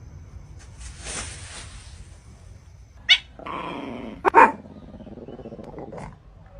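A dog barking: a sharp bark about three seconds in, a rough growl, then two loud barks in quick succession.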